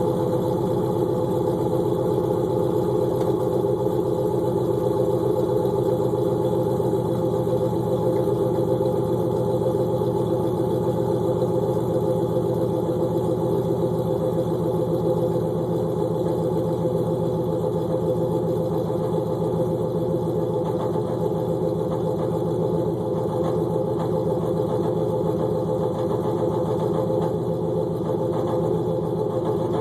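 LQ9 6.0L V8 with an LS6 camshaft idling steadily after a cold start, heard through long-tube headers, an off-road Y-pipe and a Magnaflow cat-back exhaust. No revving; the idle stays even throughout.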